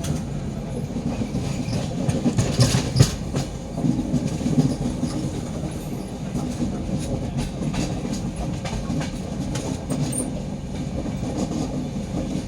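Train running on the rails: a steady low rumble with the clickety-clack of wheels over rail joints, the clacks sharpest and thickest about two to three seconds in.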